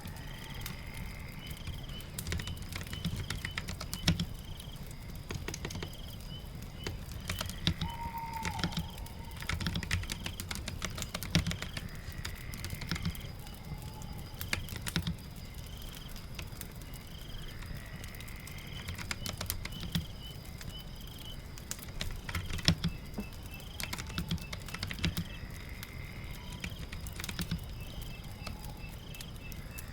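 Computer keyboard typing in uneven runs of sharp key clicks, over a steady low background.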